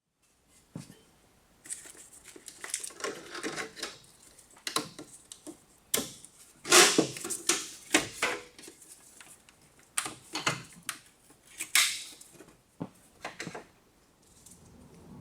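Irregular clicks and clatters of hand tools and metal parts being handled, with a few louder knocks in the middle.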